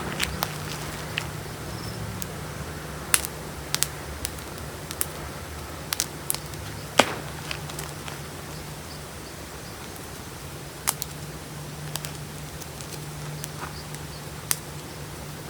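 Gym chalk crumbling between fingers: scattered sharp crackles and snaps, the sharpest about seven seconds in, over a steady low hum.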